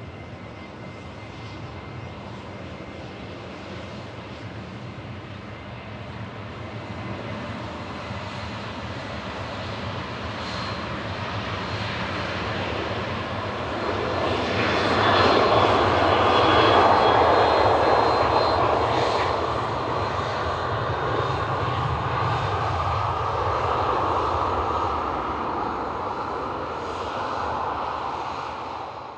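Jet airliner's engines as the aircraft passes close by: a rumble with a thin high whine that builds to its loudest about halfway through, then slowly fades.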